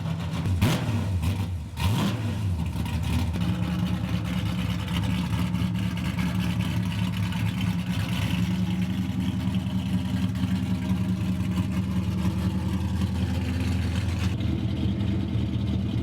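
A 1995 Mustang GT's 363 cubic-inch stroker V8 with race exhaust idling on a cold start after months of sitting. The engine note is unsteady for the first two seconds, then settles into a steady idle.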